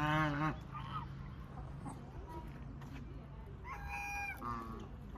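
Goose calling: a loud call at the start, a short one about a second in, and two more calls close together near the end.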